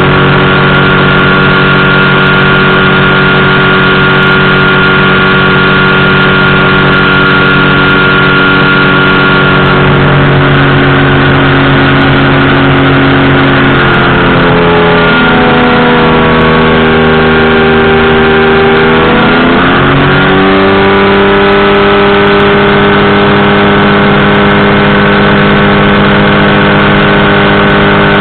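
Powered parachute's engine and propeller running loud and steady at cruise power. About 14 s in, the engine throttles back and its pitch sinks for several seconds, then rises sharply around 20 s as power comes back on, and it runs steady again.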